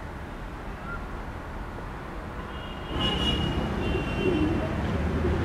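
Train running on rails: a steady low rumble that grows louder about three seconds in, with a brief high-pitched tone sounding over it.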